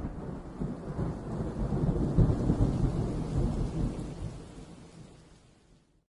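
Thunder rolling as a long, low rumble with a hiss like rain, swelling for the first couple of seconds and then fading away.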